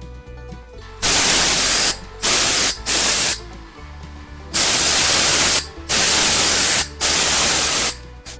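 Compressed-air blow gun fed by an air compressor, blowing fine dust off a flat-top griddle in six loud bursts of hiss, each about half a second to a second long.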